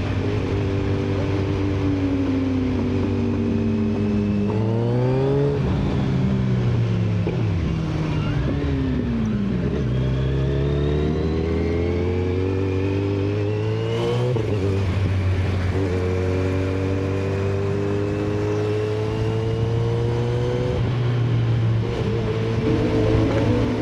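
Inline-four superbike engine under way. Its note falls and rises several times with speed and gear changes, over steady wind and road noise.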